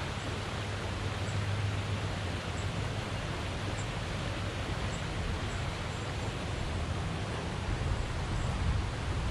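Steady rush of flowing water, an even hiss with a low rumble underneath.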